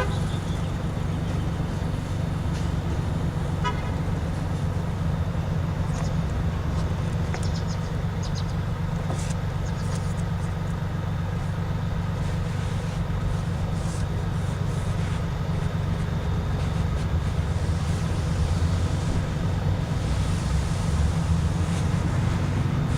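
Steady low engine hum of an idling motor vehicle, unchanging throughout, with a few faint light ticks.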